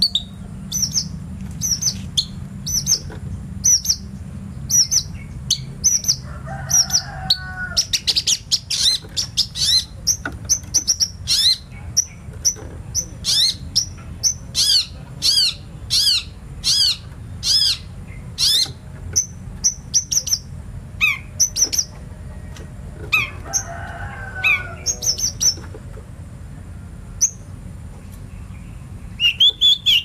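Small songbird singing in a fast run of quick, high chirps, with two lower, longer calls about six and twenty-three seconds in, over a steady low rumble.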